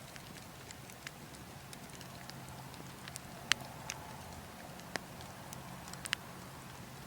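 Burning logs crackling, with scattered sharp pops over a steady low background of wind. The loudest pop comes about halfway through, and a few more follow near the end.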